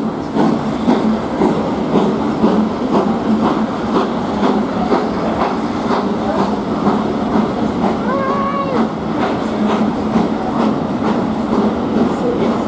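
Steam-hauled passenger train pulling out behind GWR Castle class 4-6-0 'Clun Castle', its coaches rolling steadily past with a continuous rumble and a regular clicking rhythm from the wheels over the rail joints.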